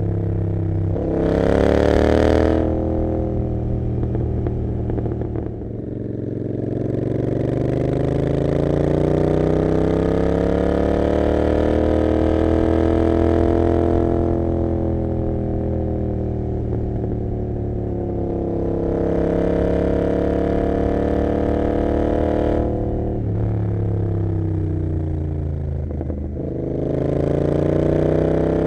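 Royal Enfield Continental GT 650's parallel-twin engine, open through an Emgo cafe muffler with no dB killer, heard on board while riding. The revs rise and fall through the gears: a brief loud rev about two seconds in, a long pull that climbs and then eases off, and two sharp drops near the end as it shifts before climbing again.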